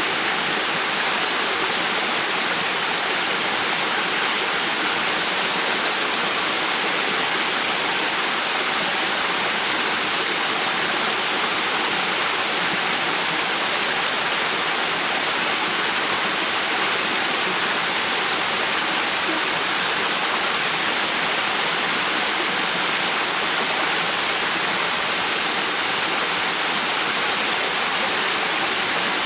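River water flowing: a steady, even rush that stays unchanged throughout, brighter in tone than deep.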